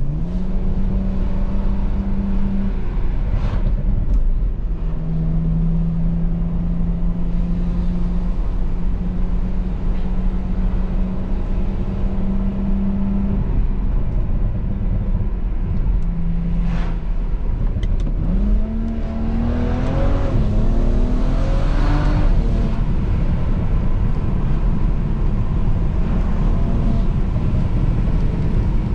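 BMW 335i E93's twin-turbo straight-six running through a straight-piped exhaust, holding steady revs with a few short sharp cracks. About two-thirds of the way through, the revs climb under hard acceleration, then settle back to a steady note.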